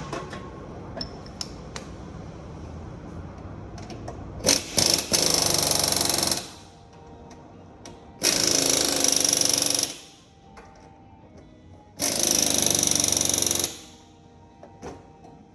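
A power tool runs in three bursts of about a second and a half each, with scattered clicks and knocks of tools between them.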